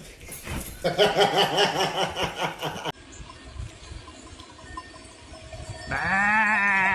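Two long, wavering animal calls: the first starts about a second in and cuts off abruptly after about two seconds, the second starts near the end.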